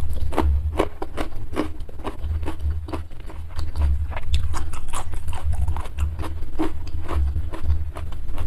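Close-miked chewing of food: quick wet mouth clicks and crunches, with a low thump that pulses with each chew.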